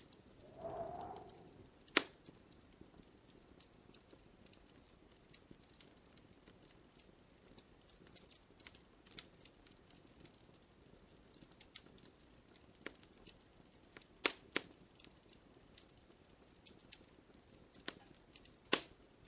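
Wood fire crackling in a fireplace: scattered sharp pops and snaps over a faint hiss, the loudest pop about two seconds in and a few more strong ones late on.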